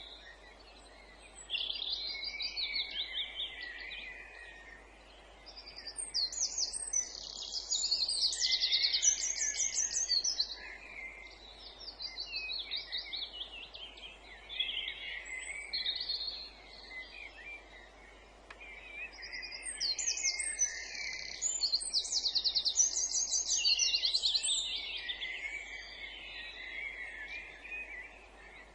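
Songbirds singing: a run of song phrases of rapid trills and chirps, each a few seconds long with short pauses between them, loudest about a third of the way in and again after two-thirds, over a faint steady background hiss.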